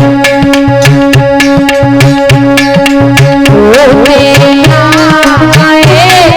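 Instrumental interlude of Indian folk music: a hand drum keeps a steady repeating rhythm under a held drone note. About halfway through, a melody line with wavering, bending notes comes in.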